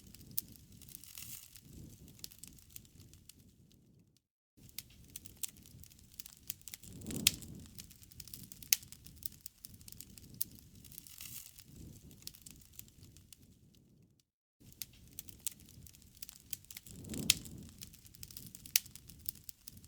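Wood fire crackling, with irregular sharp snaps and pops over a soft low rustle of flames. The sound cuts out completely for a moment twice, about ten seconds apart, where the looped recording restarts.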